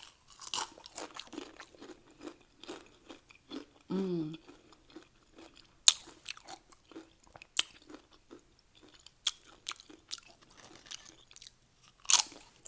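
Close-up crunching and chewing of Doritos nacho chips, with sharp irregular crunches every second or so and a louder crunch near the end. A brief voiced sound comes about four seconds in.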